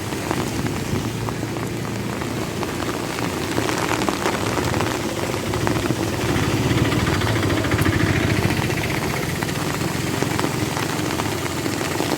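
Heavy monsoon rain, dense and hissing with many sharp drop impacts, over a low steady rumble that swells in the middle.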